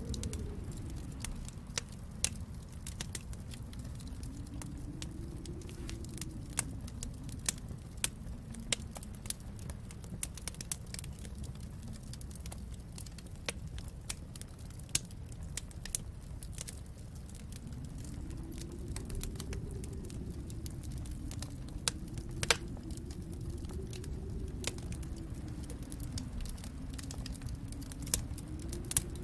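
Wood fire in a fireplace crackling, with frequent sharp pops, a few louder ones, over a low rumble of the flames that swells and fades slowly.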